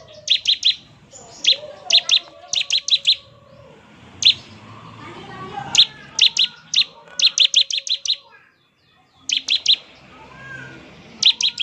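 Bar-winged prinia (ciblek) singing in the rapid 'ngebren' style: sharp, high chirps fired in quick clusters of two to five, repeated, with a brief pause about eight and a half seconds in.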